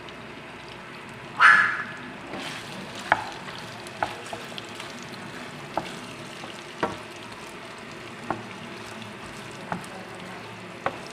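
Chicken pieces and sliced onions sizzling in a frying pan while a wooden spatula stirs them, knocking against the pan about once a second. A short, loud burst stands out about a second and a half in.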